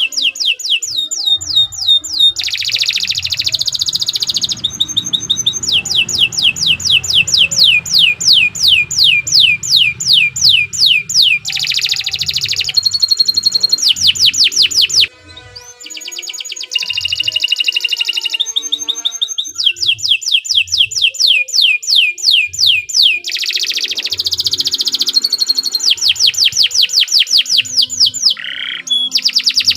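Domestic canary singing a long, loud song of rapid trills. Each trill is a fast run of the same falling note repeated many times a second, and the bird switches to a new trill every second or two. The song breaks off briefly about halfway, then carries on.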